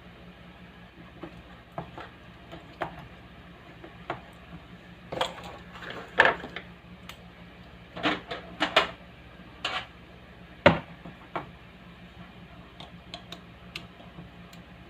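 Scattered clicks and clatter of small hard objects being handled, busiest in the middle, over a steady low hum.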